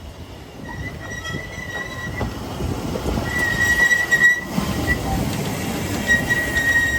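Wheel squeal from a Ffestiniog Railway narrow-gauge train: a high, steady screech comes and goes three times over a running rumble of wheels and carriages.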